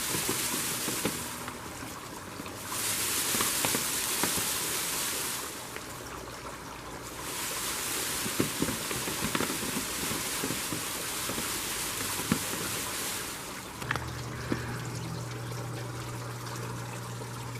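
Dwarf mulberry tree shaken in bursts lasting a few seconds: its leaves rustle, with scattered light taps of berries dropping onto a tarp below. A low steady hum comes in near the end.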